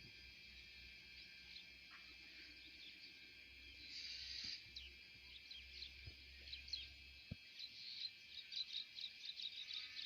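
Faint chirping of many small birds, quick short falling calls that grow busier over the last few seconds, over a steady high hum of background insects.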